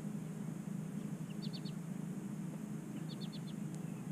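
A small bird chirping twice, each a quick run of three or four short high notes, over a steady low hum.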